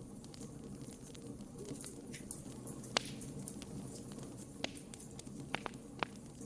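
Wood fire crackling and popping over the steady low sound of the flames, with a sharp pop about three seconds in and several smaller pops later.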